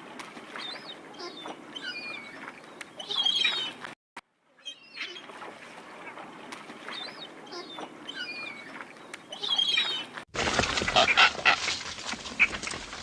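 Recorded waterfowl calling. The same short clip plays, breaks off briefly about four seconds in, and plays again. About ten seconds in, a louder, denser stretch of calls begins.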